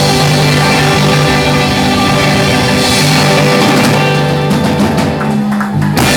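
Live rock band playing loudly with electric guitar and drum kit in an instrumental passage. About a second and a half before the end the full sound thins out into a few separate sharp drum hits as the song closes.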